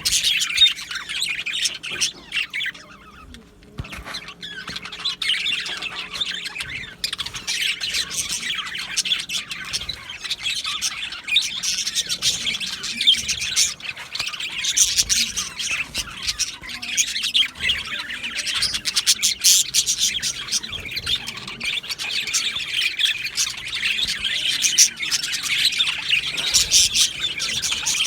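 Budgerigars chattering, chirping and squawking together in a dense, continuous chorus, with a brief lull about three seconds in.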